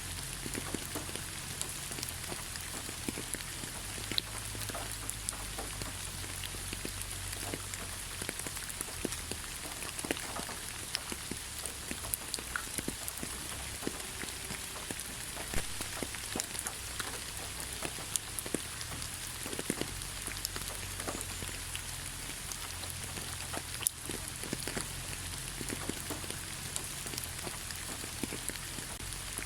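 Light rain falling on leaves: a steady hiss with many scattered drop ticks.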